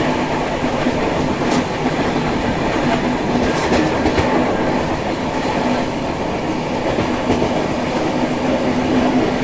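Passenger train running at speed, heard from an open coach door: a steady rumble of wheels on rail with a constant hum and a few faint clicks over the rail joints.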